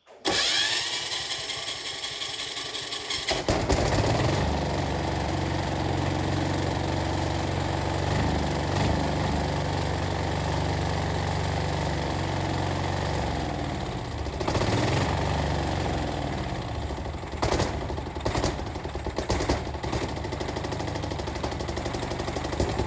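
The restored Yanmar generator's engine whirs for about three seconds, then catches and runs steadily with a rapid chugging beat.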